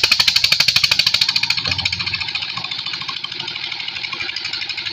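Borewell pump engine running with a rapid, even beat of about seven strokes a second, loudest and sharpest at first, then settling a little softer.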